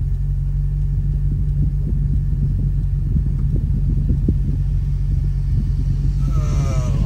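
Maserati GranTurismo's V8 engine idling with a steady low rumble, heard from inside the cabin while the car is stopped.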